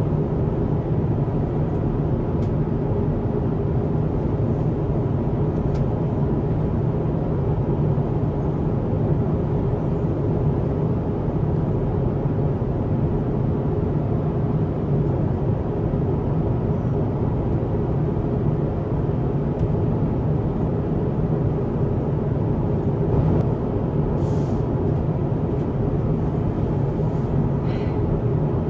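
Steady cabin noise inside an Airbus A350-1000 airliner in flight: an unbroken low rumble of airflow and engines, with a few faint light clicks near the end.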